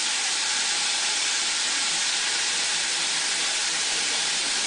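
Battered food frying in hot oil in a cast-iron pot, with a steady, even sizzle.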